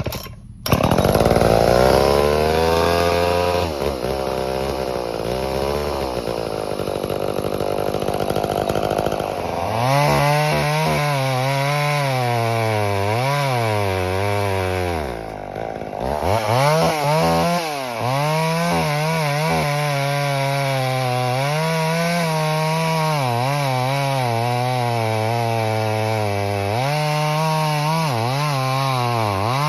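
Poulan 245A two-stroke chainsaw running at full throttle and cutting through wood, its engine pitch repeatedly sagging under load and climbing back. The sound changes abruptly a few times, switching between stretches of cutting.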